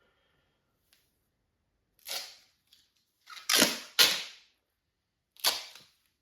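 Four short, sharp noises, each dying away within about half a second, the second and third close together in the middle.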